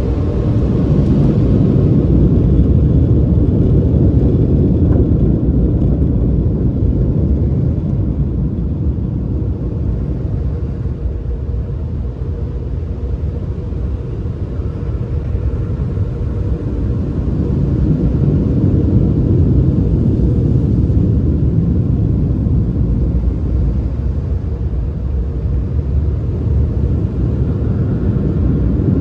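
Automatic car wash machinery making a loud, steady rumble that eases a little midway and then builds again.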